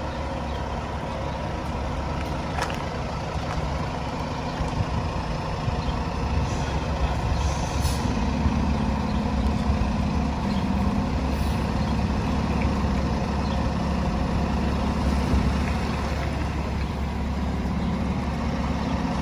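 Heavy diesel fire truck engine idling and rumbling steadily in stopped traffic, its note growing stronger from about eight seconds in, with brief air-brake hisses.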